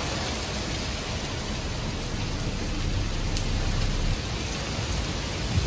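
Heavy rain falling steadily, an even hiss with low rumbling underneath.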